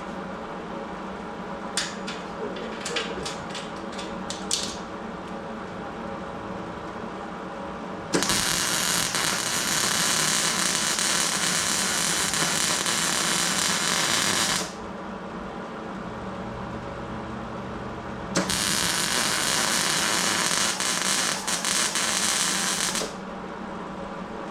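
A few short clicks, then two long bursts of loud, steady hissing from a metalworking tool in use on steel, one about six seconds long and one about four and a half, each starting and stopping abruptly, over a steady shop hum.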